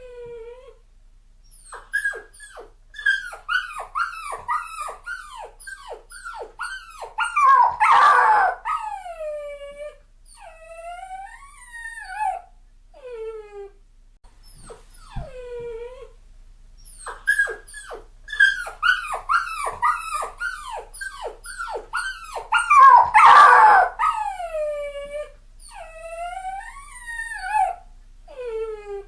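Puppy crying: a quick run of short, high, falling yelps, then one louder cry and several longer falling whines. The same sequence of cries repeats about halfway through.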